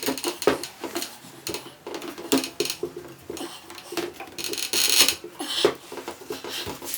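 Irregular light clicks, taps and knocks of hand work on a chair, with a short scraping rub about four and a half seconds in.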